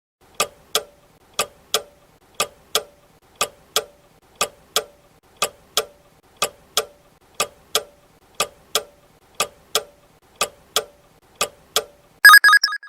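Countdown-timer sound effect: a clock ticking in tick-tock pairs, one pair a second for twelve seconds, ending in a short, loud ringing alarm tone as the time runs out.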